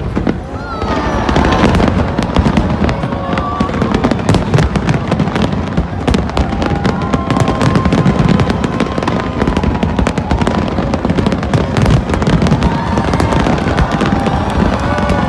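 Fireworks display: a dense, continuous barrage of bangs and crackles, swelling about a second in and staying loud.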